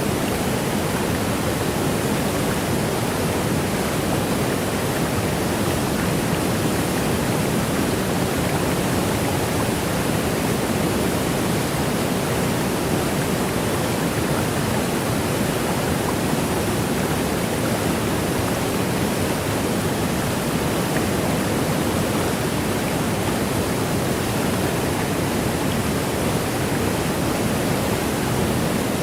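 Waterfall rushing in a steady, even stream of noise with no breaks or changes, fullest in its low-middle rumble.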